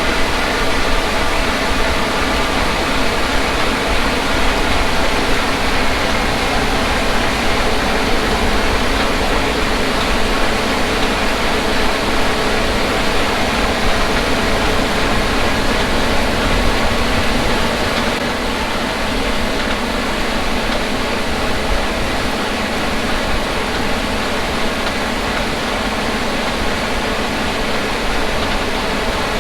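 Combine harvester at work in wheat: a steady engine and machinery hum carrying several constant tones, easing slightly a little past halfway.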